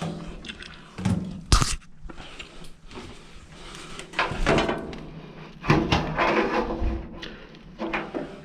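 Knocks and scraping of a clothes dryer being handled and taken apart, with a sharp knock about a second and a half in and a longer stretch of rattling and scraping in the second half.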